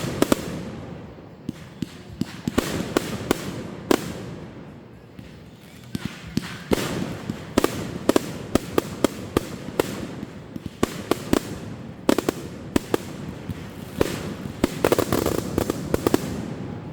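Fireworks going off: a rapid string of sharp bangs and cracks over a steady crackling rumble, coming thickest in clusters midway and near the end.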